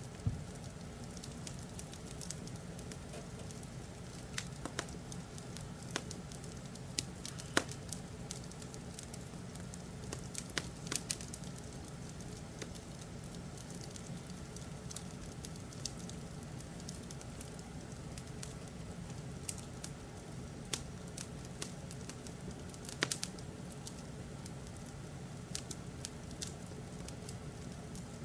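Wood fire in a fireplace crackling, with irregular sharp pops every second or two over a steady low rumble.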